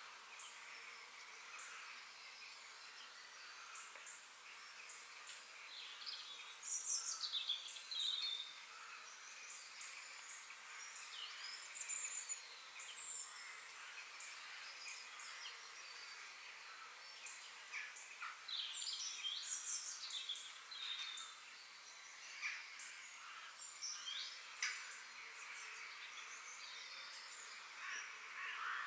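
Several birds chirping and singing in a forest chorus, with short high calls and quick falling whistles, over a steady background hum of insects.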